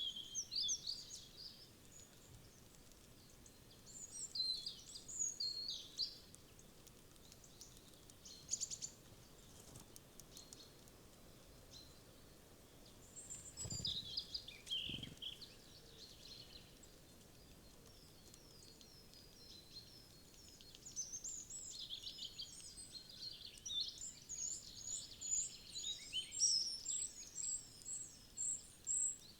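Small wild birds chirping and calling in scattered bursts over faint background hiss, ending in a long run of quick, repeated chirps. Two soft low thuds come about halfway through.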